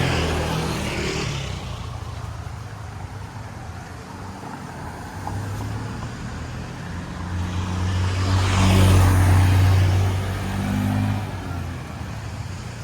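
Motor vehicles passing along the road close by: one engine fading away in the first couple of seconds, then another building up, passing loudest about nine seconds in and dying away.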